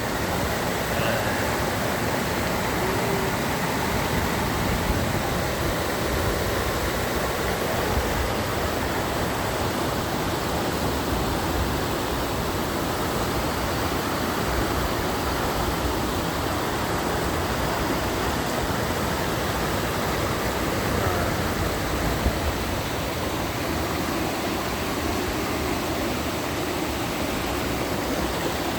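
Mountain stream water running, a steady, unbroken rush of water.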